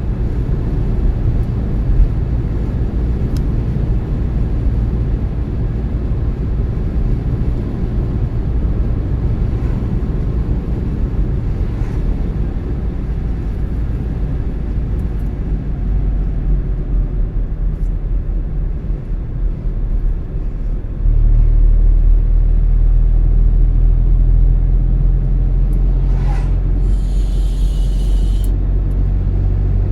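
A car driving along a road: a steady low rumble of engine and tyre noise. It grows louder about two-thirds of the way through, and a short hiss comes near the end.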